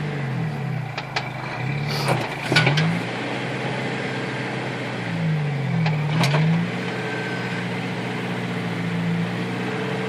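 Jeep Wrangler engine running at low revs on a slow rock crawl, the throttle opened and eased off twice, with a few sharp knocks from the rock ledge, loudest about two and a half seconds in.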